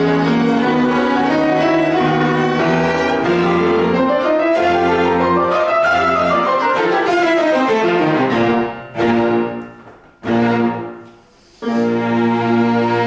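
Piano quartet of piano, violin, viola and cello playing classical music. Midway a line climbs and then falls back in pitch; two short accented chords follow, each dying away into a brief pause, before the ensemble comes back in near the end.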